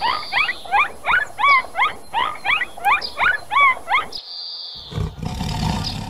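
Dolphin whistling in a rapid series of short rising squeaks, about three a second, for about four seconds. After a brief break, a lion's low-pitched call begins near the end.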